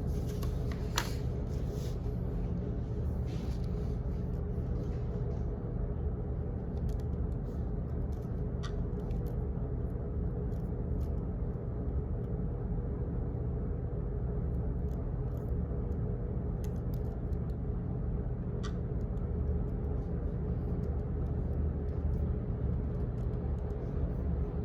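Office background noise: a steady low rumble with a constant hum, and faint clicks here and there at irregular moments.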